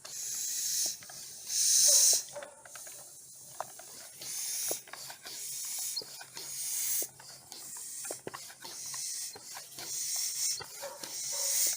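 Hand air pump being worked to inflate a ball through a needle: a hiss of air with each stroke, repeating roughly every second and a half.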